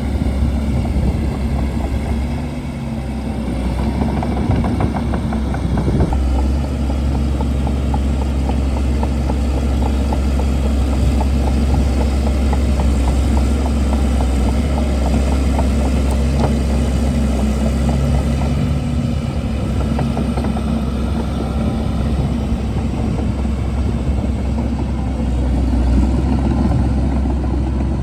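Shantui DH17C2 bulldozer's diesel engine running steadily, with a fast clatter over it from about four seconds in.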